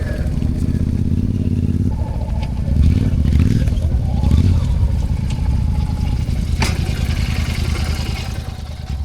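Motorcycle engine running under way, its revs rising and falling, with rushing noise over it. There is a sharp knock about seven seconds in.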